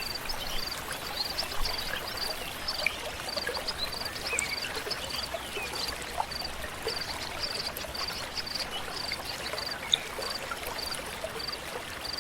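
A stream flowing steadily, with a small bird repeating a short, high chirp in quick groups of two or three. A single sharp click sounds about ten seconds in.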